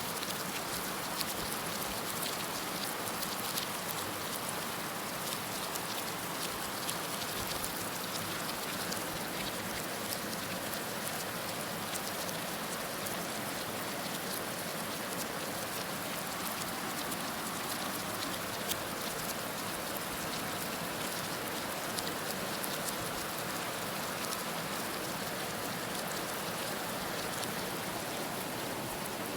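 Heavy rain falling steadily: a dense, even hiss with scattered sharper drop splats.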